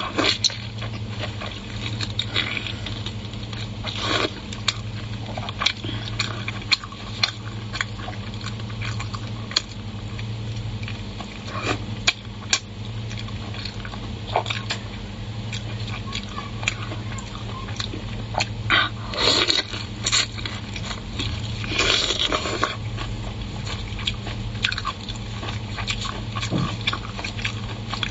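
Close-up chewing and biting of spicy lamb brain wrapped in tripe, with wet mouth sounds and many sharp crackly clicks, busiest about two-thirds of the way through. A steady low hum lies underneath.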